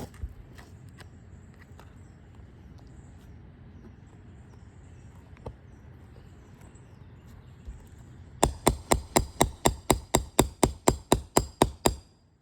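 A roofing hammer striking rapidly, about nineteen sharp strikes at about five a second, in the last few seconds after a stretch of faint background with a few light clicks; typical of the hammer working the nail puller or roof snake under a shingle to get at its nails.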